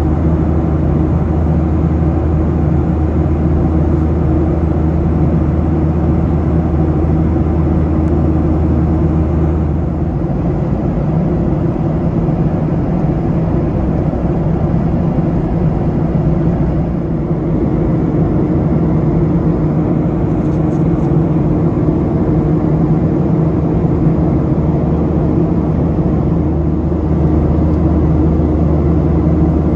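Steady cabin noise of a Boeing 737-800 airliner in flight: a constant rush of airflow and engine noise with a low steady hum. The deepest part of the hum weakens about ten seconds in and returns near the end.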